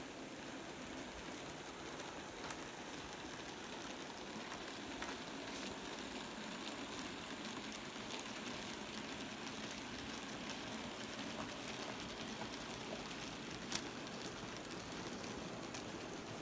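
N gauge model train running on the layout: a steady rustling hiss of small wheels and motor, dotted with faint clicks and one sharper click near the end.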